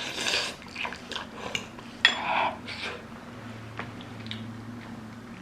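Eating sounds: a utensil clicks against a noodle bowl a few times, with a couple of short, sharp breaths.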